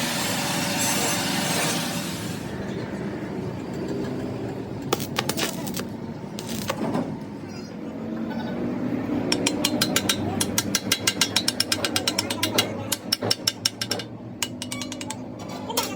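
Metal workshop tool noise: a rasping hiss that stops about two seconds in, then scattered knocks and a run of rapid sharp strikes, about ten a second.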